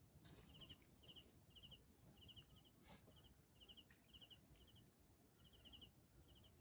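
Faint insects chirping: short groups of quick high pulses repeat about twice a second, with a higher thin trill in between. There is one soft click about three seconds in.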